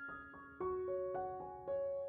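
Soft background piano music: single notes struck one after another and left to ring and fade.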